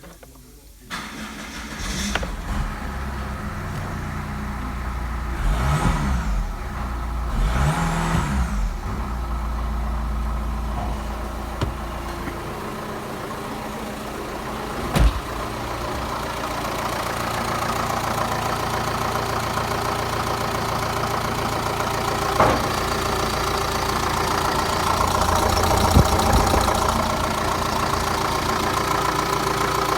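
Chrysler Voyager 2.8 CRD four-cylinder common-rail diesel engine starting about a second in, revved briefly twice, then running steadily at idle.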